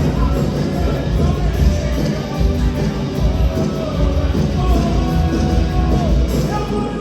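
Live church band playing a worship song, with a steady low beat under held melody notes.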